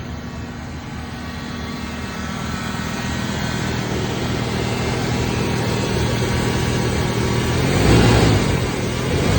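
Truck engine running, slowly getting louder, then revved once about eight seconds in before settling back.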